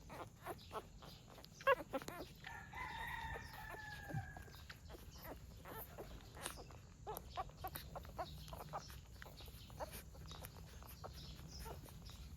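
Faint, repeated high squeaks and whimpers from a litter of newborn animals nursing, with one longer call falling slowly in pitch about three seconds in.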